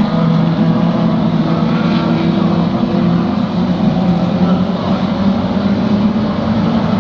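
Engines of classic saloon racing cars running hard on the circuit: a loud, steady drone of several engine notes overlapping, shifting slightly in pitch.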